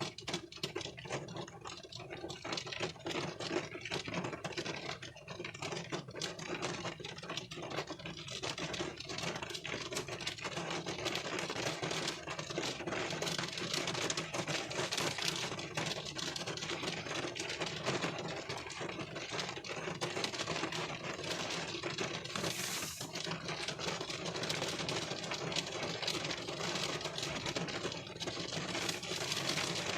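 Rain falling on a car's windshield, heard from inside the car: a steady, dense patter of many small drop taps over a soft hiss.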